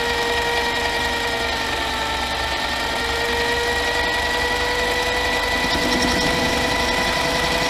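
Harbor Freight mini lathe running at a steady speed: an even mechanical whine from its motor and gear train, with a high steady tone over a low hum.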